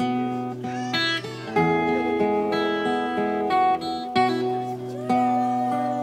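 Instrumental acoustic guitar strumming chords, changing roughly every second or so, between sung lines of a song.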